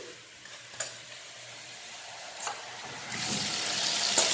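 A metal spatula clicks and scrapes against an enamel bowl a few times, then about three seconds in a sizzle starts up loudly as yogurt-marinated chicken drops into hot oil with browned onions.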